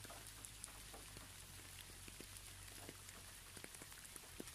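Faint rain: a steady hiss with scattered, irregular drop ticks.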